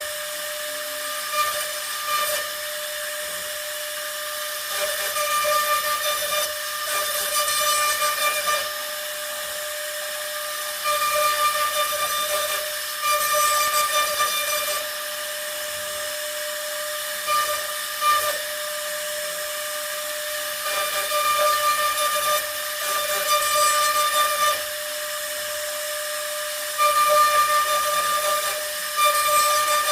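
CNC router spindle running with a steady whine, the bit cutting in repeated louder stretches of one to two seconds each.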